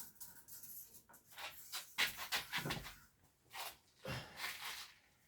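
A scatter of light clicks and knocks from small parts and hand tools being handled while trying to tighten a fitting, with a few breathy rustles near the end.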